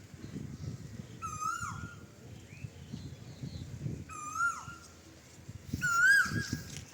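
An animal call, repeated three times about two seconds apart: each is a short, clear note that rises and then drops sharply. Low rumbling noise runs underneath.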